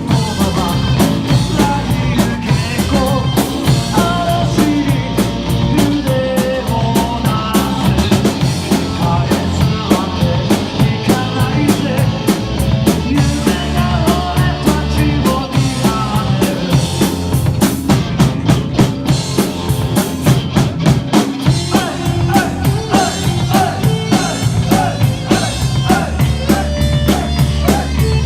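Instrumental passage of a rock song: a drum kit keeps a steady, driving beat under bass and other band instruments, with no singing.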